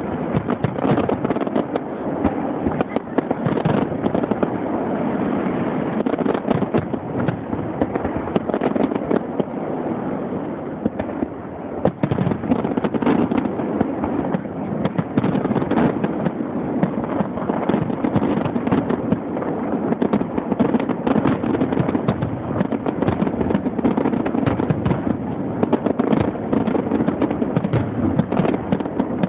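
Fireworks finale: a dense, unbroken barrage of shell bursts and crackle, overlapping so closely that it never falls quiet. It eases slightly around ten seconds in, then a sharp bang near twelve seconds starts it building again. It is heard through a phone's microphone, which cuts off the highs.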